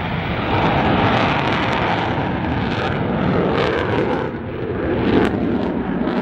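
Jet aircraft engine noise, a steady loud rush that dips briefly a little past the middle and swells again, with wind buffeting the microphone.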